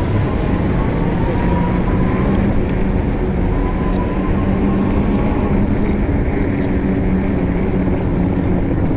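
Steady wind rush and rumble on the microphone while riding an e-bike through city streets.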